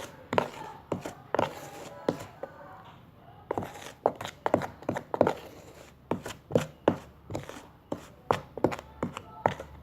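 Thick baby-cereal porridge being stirred in a jar: repeated irregular knocks and scrapes of the stirrer against the jar, a few a second.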